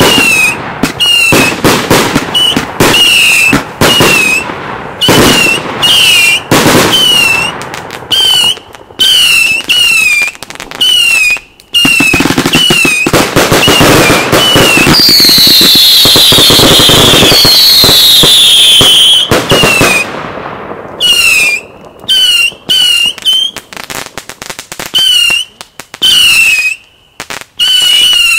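Daytime fireworks: salute shots from a firework battery bang in rapid succession, with a stretch of loud high whistles about halfway through. A regular high chirp repeats throughout, and the bangs thin out near the end.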